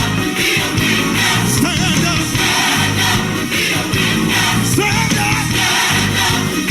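Live gospel worship music: a band with drums keeping a steady beat, and voices singing.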